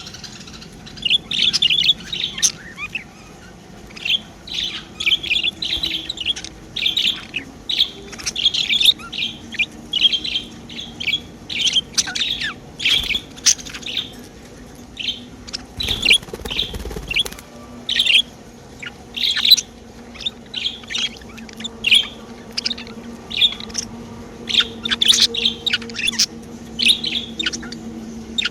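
Pet budgerigars chirping and chattering, a rapid stream of short twittering calls. A faint steady low hum joins in about two-thirds of the way through.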